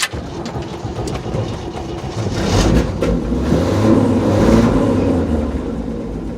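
The 1964 Chevy's 250 straight-six, fed by a Rochester single-barrel carburetor, running on a cold start with the choke still on. It picks up speed about two and a half seconds in and eases back down near the end.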